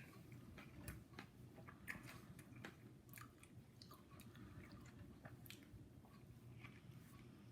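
Faint chewing of a loaded Subway sub sandwich: soft, irregular mouth clicks and crunches from biting and chewing, over a steady low hum.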